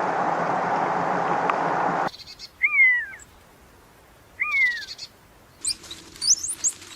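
A steady hiss that cuts off about two seconds in, then two short calls that rise and fall in pitch about two seconds apart, then small birds chirping rapidly near the end.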